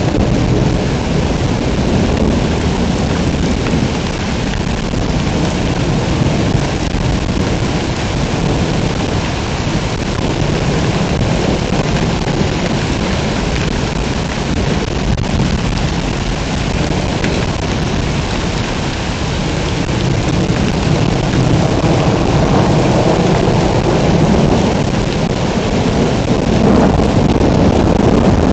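Heavy rain pouring steadily, with thunder rumbling underneath; the storm swells louder in the second half.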